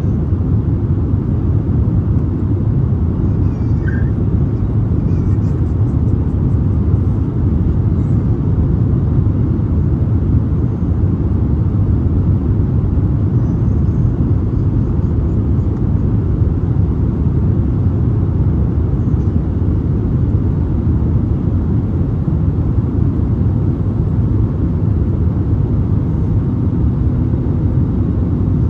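Steady low rumble of a jet airliner's engines and rushing air, heard inside the passenger cabin during the descent.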